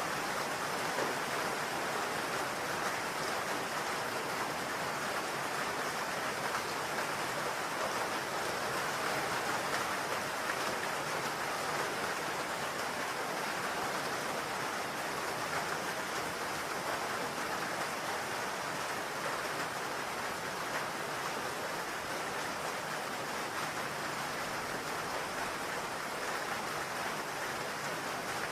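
Steady rain falling on a roof, an even hiss of many drops.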